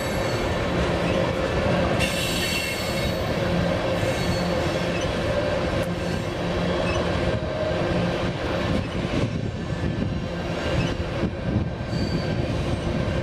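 Passenger train rolling by on the rails: a steady rumble and clatter of wheels, with faint high wheel squeal now and then.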